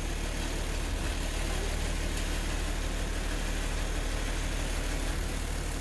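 Steady low hum of a truck's engine and road noise heard from inside the cab.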